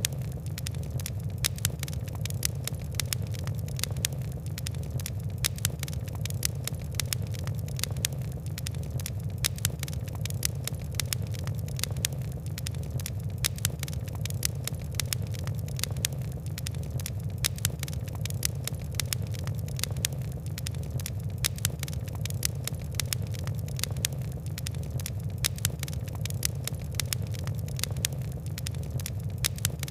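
Fire crackling: a dense, irregular run of small snaps and ticks, several a second, over a steady low rumble.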